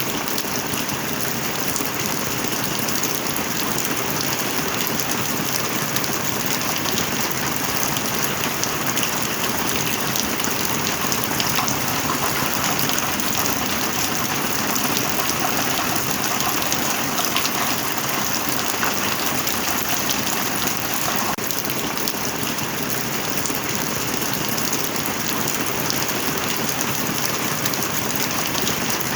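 Steady rain falling: an even, dense hiss with a fine patter of drops, holding at one level.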